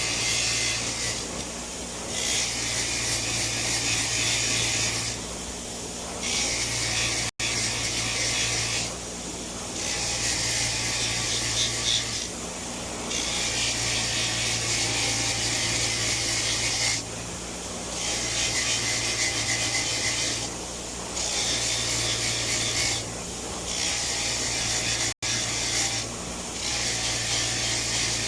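Motor-driven wire wheel scrubbing a metal gasket surface clean, in repeated passes of a second or two with short easings between, over a steady motor hum.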